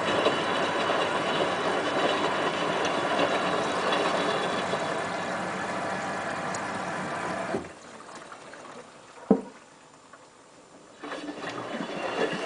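Hotpoint WT960 washing machine running, with water moving through it. The sound cuts off suddenly about seven and a half seconds in, a single click follows, and the machine starts up again near the end.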